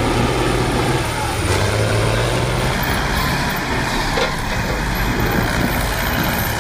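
Heavy vehicle engine running loudly under load, with a steady low engine hum through the first three seconds over dense mechanical noise.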